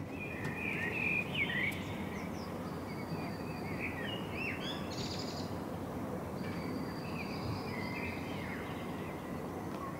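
Several birds chirping and calling, short rising and falling notes coming and going, over a steady background hiss of outdoor ambience.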